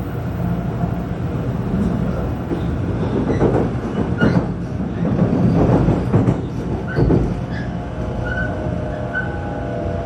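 700 series Shinkansen train running: a steady low rumble with louder swells of rail and wheel noise in the middle, and a few short high tones in the last few seconds.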